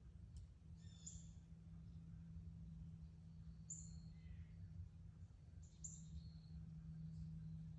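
Faint songbird chirps: three short, high calls about two seconds apart, over a low steady hum.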